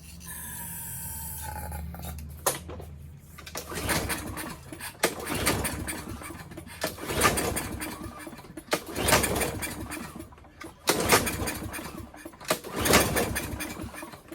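A short spray hiss, then a Briggs & Stratton walk-behind mower engine pull-started over and over, about one pull every two seconds. It cranks without catching: a no-start engine being tried on carb cleaner sprayed into the intake.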